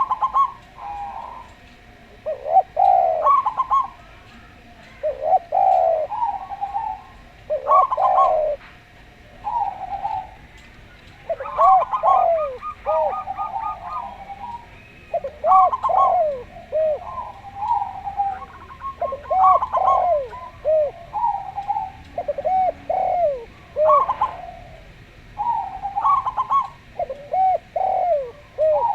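Zebra dove and spotted dove cooing back and forth: repeated mellow coo phrases every second or two, mixed with quicker rolling, trilled notes.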